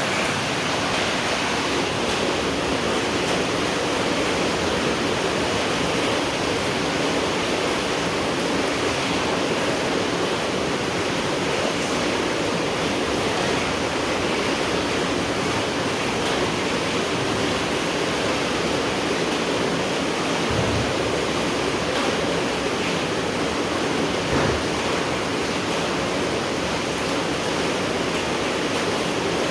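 Steady rain falling at night, an even, unbroken hiss of drops, with two soft low thuds about two-thirds of the way in.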